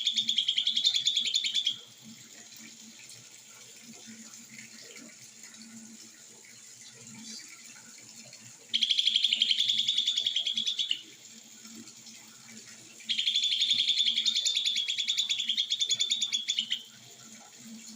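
Lesser green leafbird (cucak ijo mini) singing a 'konslet' song: bursts of very fast, buzzing repeated notes. Three bursts: one already under way that stops about two seconds in, one from about nine to eleven seconds, and a longer one from about thirteen to seventeen seconds.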